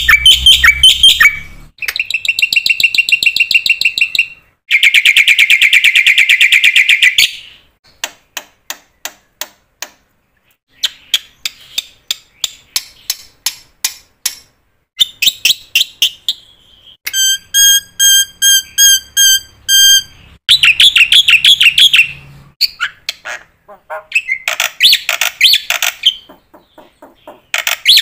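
Bird calls: a series of varied high chirps, rapid trills and whistled notes, coming in separate runs with short pauses between them.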